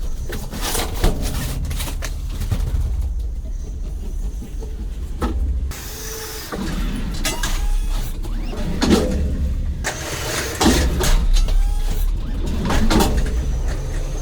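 A steady low engine rumble, with repeated knocks and thumps of cartons being handled. Voices call out now and then in the second half.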